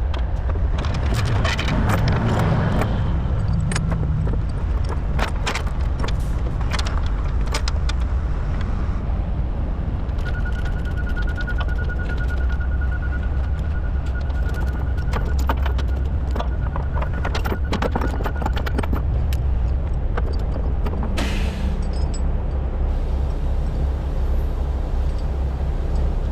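Heavy diesel engine running steadily, with scattered sharp clicks and knocks. A thin high tone sounds for several seconds in the middle.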